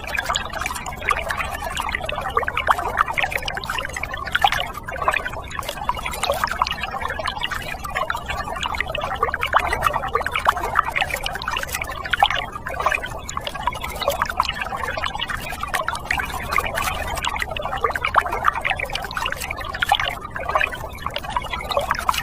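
Water pouring or splashing steadily, with a dense crackle throughout and a faint low hum underneath.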